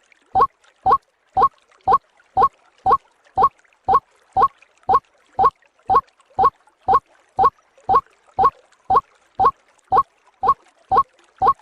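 White-breasted waterhen (ruak-ruak) call played as a bird-lure recording: a short upward-sliding note repeated evenly about twice a second.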